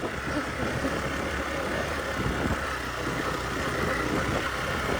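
Motorcycle engine running steadily at low speed, a continuous low hum.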